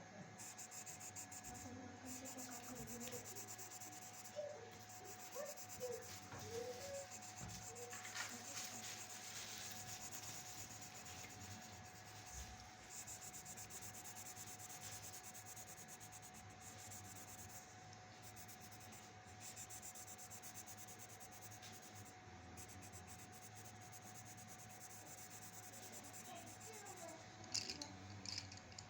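Faint scratching strokes of a drawing tool on paper, over a faint steady hum.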